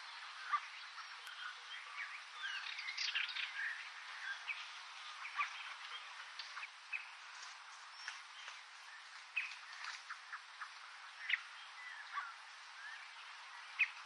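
Small birds chirping and calling, with many short quick notes and sweeping whistles scattered irregularly over a faint steady hiss.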